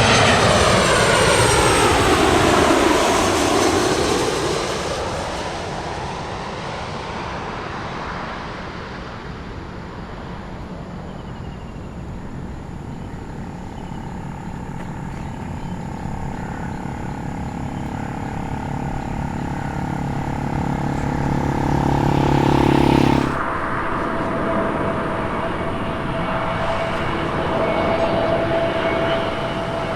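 An airliner's engines passing close by, loudest at the start, with the pitch falling over the first few seconds as it goes past, then fading to a steady rumble. Later a steadier engine whine builds and cuts off suddenly about two-thirds of the way through, leaving a fainter steady tone.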